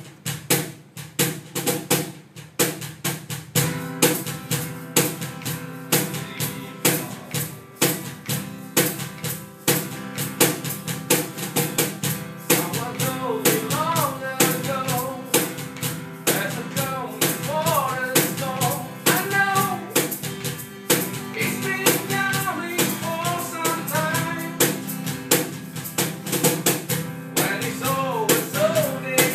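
Rock band playing an instrumental intro: the drum kit starts straight away, bass and guitar come in a few seconds later with a steady beat, and a lead melody joins about halfway through.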